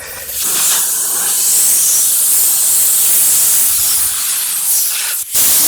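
Compressed air hissing loudly and steadily from an air blowgun as it blasts soot out of a truck's exhaust aftertreatment filter media. It breaks off briefly near the end, then comes back in a short, strong burst.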